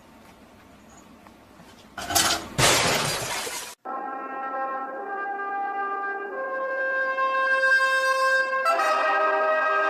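A loud crash about two seconds in, then brass music with long held notes.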